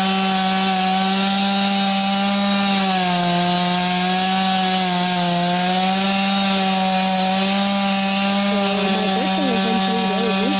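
Chainsaw running at high revs while cutting birch, its pitch dipping for a couple of seconds as the chain loads in the cut, then climbing back.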